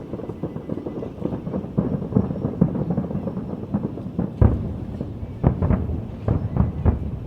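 Aerial fireworks shells bursting in a rapid run of rumbling booms, the loudest about four and a half seconds in, followed by a quick cluster of further booms.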